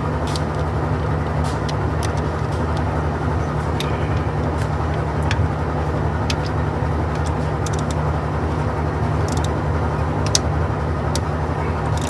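A steady low hum runs throughout, with scattered sharp metallic clicks and taps at irregular moments from hand tools working loose the oil pan bolts.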